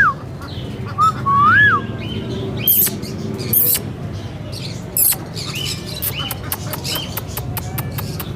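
Green Indian ringneck parrot giving a whistled note that rises and falls, then a rapid run of short sharp squeaks and chirps.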